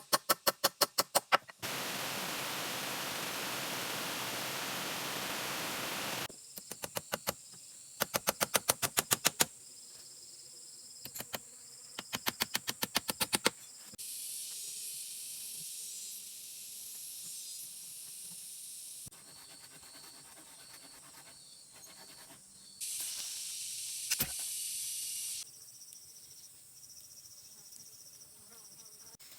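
A quick-cut sequence of rapid runs of sharp knocks, six to eight a second, alternating with stretches of steady hiss that start and stop abruptly.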